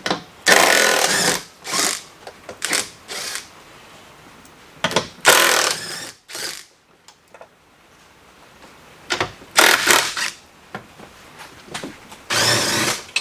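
A handheld power tool run in short bursts of about a second each, seven or so times, with small knocks between, typical of bolts being run out with a cordless tool.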